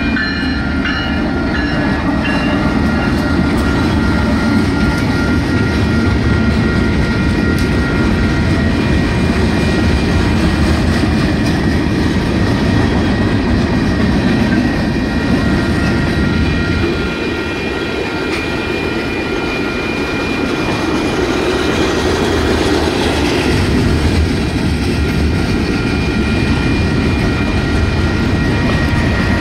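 Union Pacific freight train passing a grade crossing. The lead SD70ACe and a second diesel locomotive rumble by first, then a long string of tank cars and gondolas rolls past with wheels clacking on the rails. The crossing's electronic bells ring steadily throughout.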